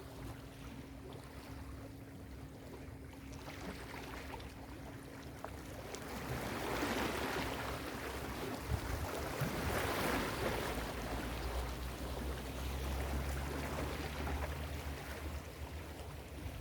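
Ocean waves breaking and washing up the beach: a wash that swells about six seconds in, peaks around ten seconds, then eases off, over a steady low rumble.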